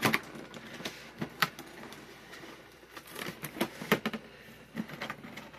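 Packaging being handled as a toy box is opened: scattered taps, clicks and rustles, with sharper knocks about a second and a half in and again near four seconds.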